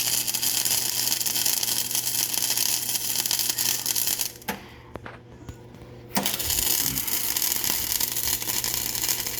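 Flux-core MIG welder arcing with a steady crackle as it lays a bead on thin, painted steel pipe that was not cleaned. The arc stops about four and a half seconds in and strikes again under two seconds later.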